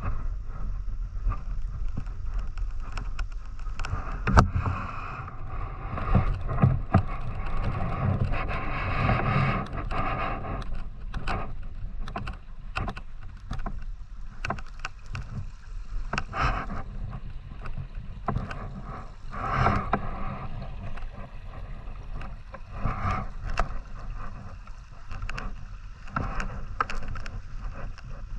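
River water sloshing and gurgling, with a low rumble and many small irregular knocks and clicks.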